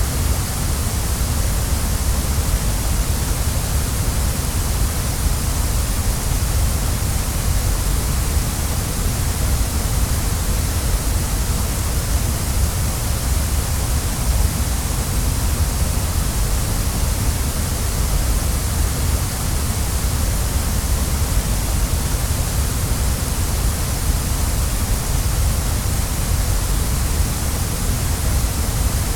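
Waterfall: a steady rush of falling water, with a deep rumble underneath and a bright hiss on top, unchanging in level.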